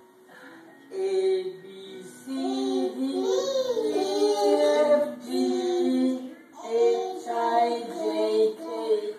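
A child singing, a melody with gliding pitch, starting about a second in and broken by short pauses.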